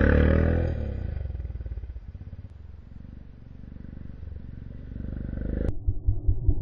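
Motorbike engine at its loudest at the start, its pitch falling as it goes by and fades, then running lower and quieter. Near the end a sudden change to a close, low, pulsing engine sound.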